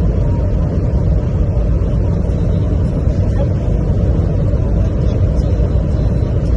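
Toyota Fortuner SUV driving at speed: a steady, loud low rumble of engine and road noise, with no rise or fall in pitch.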